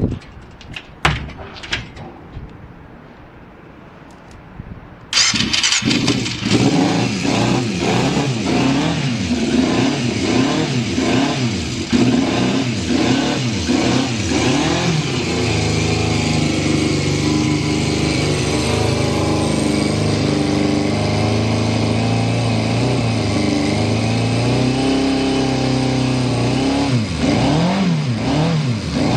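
A few clicks, then a Yamaha FZ400's inline-four engine is electric-started about five seconds in. It is blipped up and down for several seconds, then settles to a steady, stable idle, with a couple more blips near the end.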